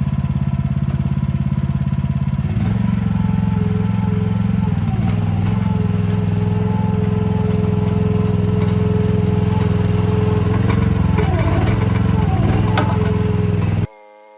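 Mini excavator engine running steadily, throttled up about two and a half seconds in, with a steady whine over it as the machine digs. It cuts off suddenly near the end.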